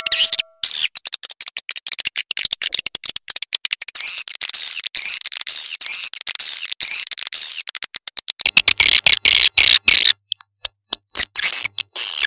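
Recorded swiftlet calls used as a lure sound for a swiftlet nest house: dense, rapid, high-pitched chirping twitters, cut by abrupt silent gaps from the edited loop. A steady electronic tone dies away in the first half second.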